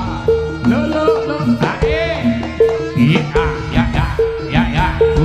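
Jaranan ensemble music: hand drums under a steady two-note pattern that repeats about twice a second, with a wavering high melody line over it.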